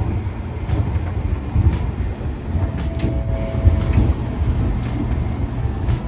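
Fujikyuko Line electric train pulling into the station: a low rumble with occasional clacks, and a short faint squeal about halfway through.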